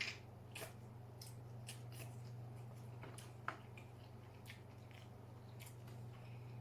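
Close-up eating sounds: a bite into sauced king crab meat, then wet chewing with small mouth clicks and smacks, the sharpest right at the start and a few seconds in, over a steady low hum.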